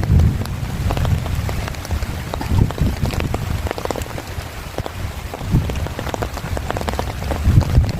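Heavy rain with many individual drops striking close to the microphone, over a low rumble that swells near the end.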